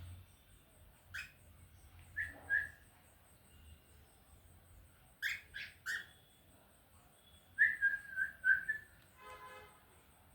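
Cockatiel chirping: short whistled calls in small groups, with one call, then two, then three quick ones, and a longer run of calls a little after halfway.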